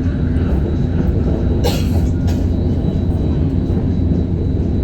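KLIA Express electric train running at speed, heard as a steady low rumble, with one brief sharp hiss a little under two seconds in.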